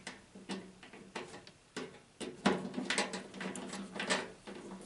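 Irregular clicks and knocks of tools and microwave panel parts being handled while a screw is taken out to free the front control-panel clip, with the sharpest knock about halfway through.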